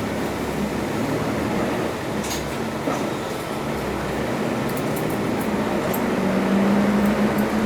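Interior running sound of a 1995 Isuzu U-LV318L two-step route bus: engine and road noise heard from inside the cabin. A steady hum grows louder over the last couple of seconds.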